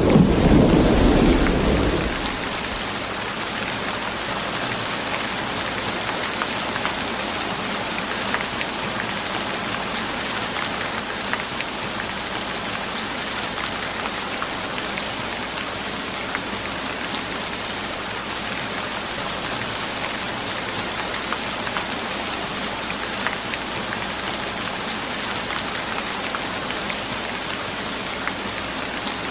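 Steady rain falling, with fine scattered drop ticks. A deep rumble dies away in the first two seconds.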